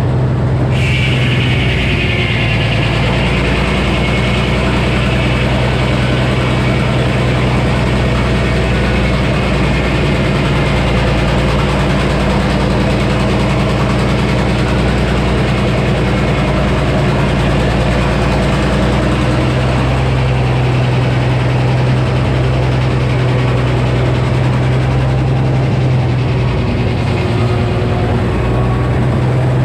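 Frick sawmill with a 48-inch circular saw running steadily under engine power. A higher whine comes in about a second in and fades over the next few seconds, and the engine's pitch shifts slightly partway through.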